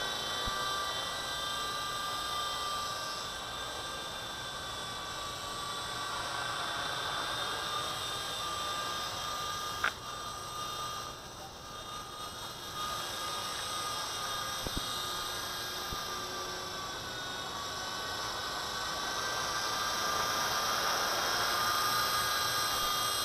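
V913 RC helicopter's electric motor and rotor blades whining steadily in a hover, the pitch sagging and the sound dipping briefly about halfway through before climbing back.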